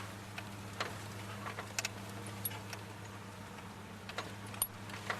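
Cab interior of a 1992 Dodge Dakota running on wood gas while driving: a low steady engine hum with scattered light clicks and rattles.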